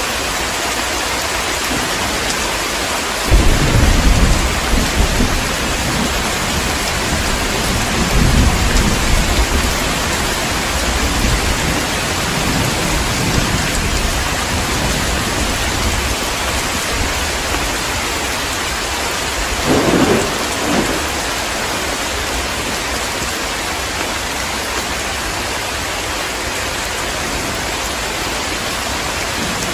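Heavy rain falling steadily, with thunder: a sudden clap about three seconds in that rolls on for several seconds, swelling again around eight seconds, and a shorter rumble about twenty seconds in.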